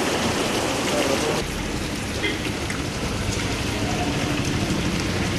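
Heavy cyclone rain: a steady, loud rushing hiss that eases a little about a second and a half in.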